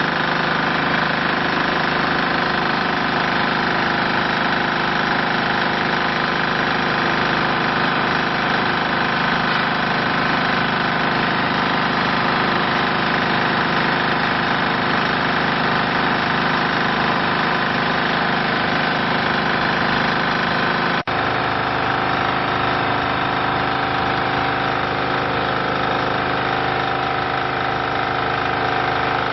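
Diesel engine of a hydraulic compressed earth block machine running steadily. About two-thirds of the way through there is a brief dropout, after which the running settles at a slightly different pitch.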